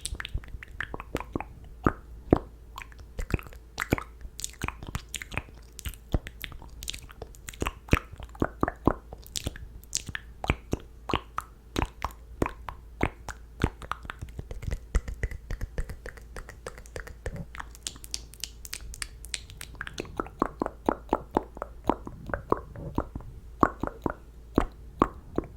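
ASMR mouth sounds close to the microphone: a dense, irregular run of wet clicks, pops and smacks from the lips and tongue, several a second, with no words.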